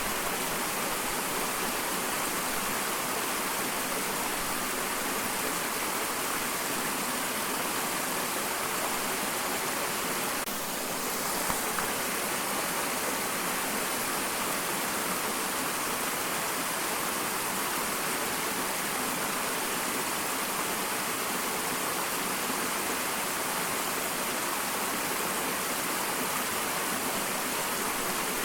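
Small waterfall: steady rushing, splashing water, even and unbroken, weighted toward the hiss rather than a deep rumble.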